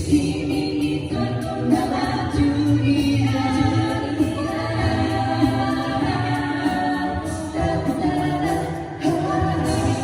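Several voices singing a pop song in close harmony, a cappella, with a low sung bass line beneath the upper parts.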